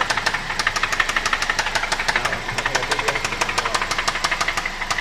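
2005 Toyota Corolla XLi's four-cylinder engine running with a rapid, regular metallic knock, uneven in strength. It is rod knock from a connecting rod assembled without one of its bearing shells around the crankshaft.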